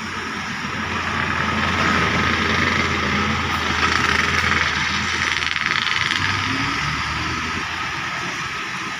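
A motor vehicle passing on a wet road: its engine rumbling under tyre hiss. It builds to a peak about two to four seconds in, then slowly fades.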